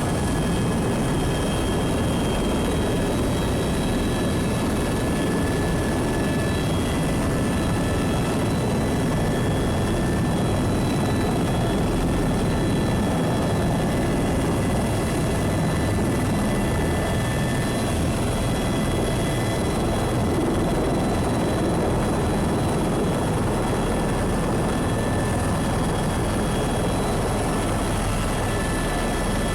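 Helicopter turbine engine and rotor running steadily, heard from inside the cabin: a dense, even rush with thin high whining tones over it.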